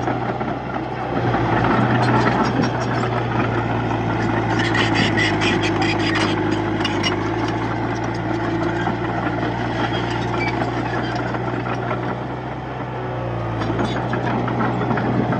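Diesel engine of a Komatsu D31-P crawler bulldozer running steadily under work, with a stretch of rapid metallic clatter about five to seven seconds in.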